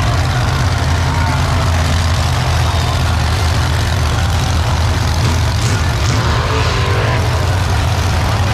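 A large vehicle engine running steadily with a constant low drone, with faint voices of people around.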